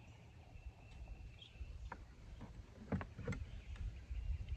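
Light clicks and knocks of a Swiss K31 carbine's parts being handled during disassembly, around its wooden handguard. A few separate taps come about two and three seconds in, over a faint low rumble.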